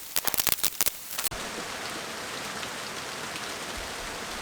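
A quick run of sharp clicks and knocks for about a second, typical of nails being worked loose from the barn wall, then a steady hiss sets in suddenly.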